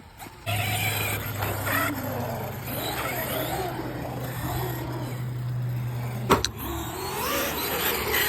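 Electric RC car motor whining under throttle, its pitch rising and falling as the car is driven, starting about half a second in. A sharp knock sounds about six seconds in.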